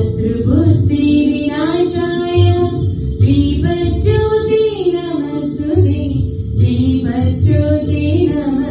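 A female voice singing a melodic song over instrumental accompaniment with a low pulsing beat.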